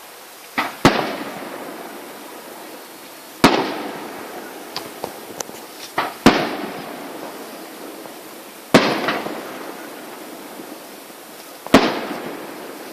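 Fireworks bursting overhead: five loud bangs about every two and a half to three seconds, each trailing off in a long echo, with a few smaller pops in between.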